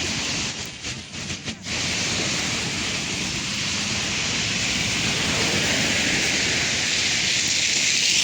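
Steady rushing noise of a train running at speed, with a few brief dips a little after the start.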